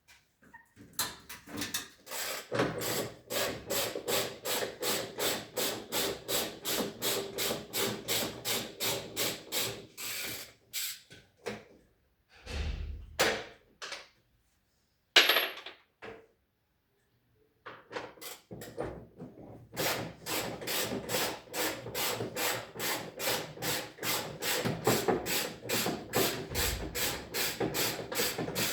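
A hand tool worked in quick, even strokes, about three a second, on washing-machine parts, in two long runs with a few knocks and a sharp click in the pause between.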